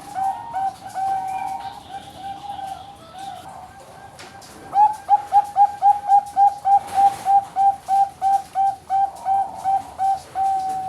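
Bangkok-line zebra dove (perkutut bangkok) singing a fast string of short, repeated coos at about four a second, softer in the middle and louder from about halfway through.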